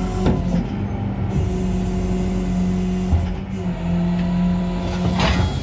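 Tow truck engine running steadily under the work of unhooking a car, with a couple of metallic knocks and a short rush of noise near the end.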